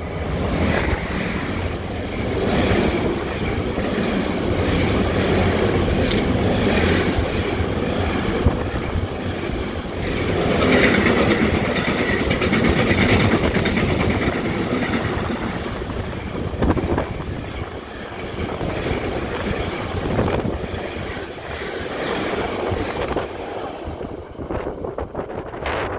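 Electric freight train passing close at speed: a Siemens Vectron (class 193) locomotive hauling pocket wagons loaded with lorry semi-trailers. The wheels make a steady rumble on the rails, with clicks and clacks over the rail joints.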